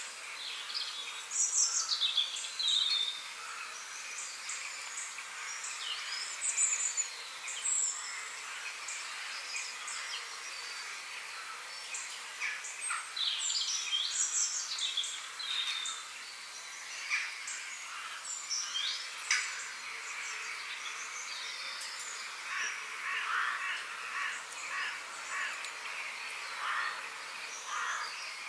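Several small birds chirping and singing, with quick falling whistles and, in the last third, rapid runs of short notes, over a steady high background hiss.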